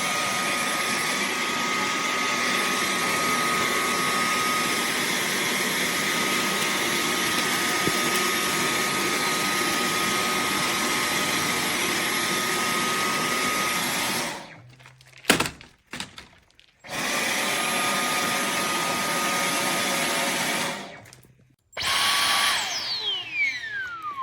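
Dyson V15 Detect cordless stick vacuum running at a steady high pitch for about fourteen seconds, then cut off with a click. It runs again for a few seconds and stops, then starts once more and winds down in a falling whine, as the trigger is released.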